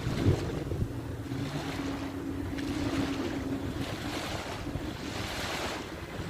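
Waves washing on a beach, with wind buffeting the microphone. Under the surf a steady low hum runs and drops away a little before four seconds in.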